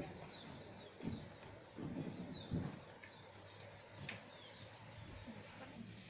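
Small birds chirping over and over, in short, high, falling notes. A few dull low thumps about a second in, around two seconds in and near five seconds in are louder than the birds.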